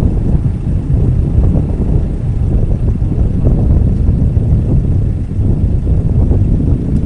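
An off-road vehicle's engine running, heard as a steady low rumble.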